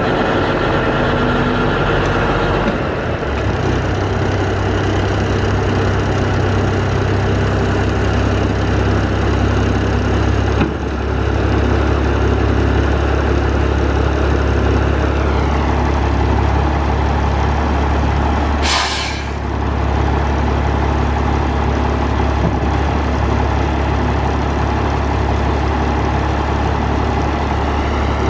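1985 International S2600 dump truck's engine idling steadily, its low note shifting a couple of times. Near two-thirds of the way through comes one short hiss of air, typical of the truck's air brakes.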